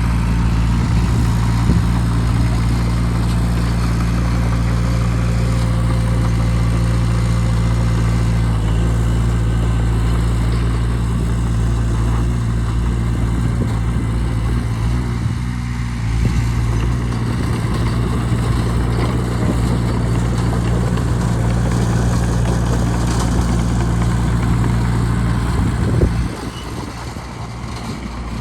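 Bulldozer diesel engine running steadily under load with a constant low drone. About two seconds before the end, the low engine note drops away suddenly and the sound gets quieter.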